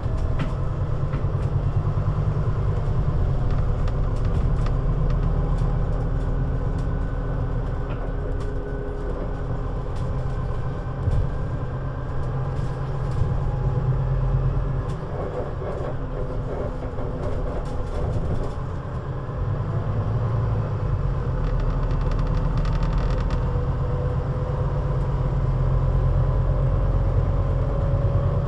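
Scania CN320UA bus under way, its engine and drivetrain running with a deep continuous rumble. The engine note slowly rises and falls with the loudness, and there are scattered light rattles and clicks.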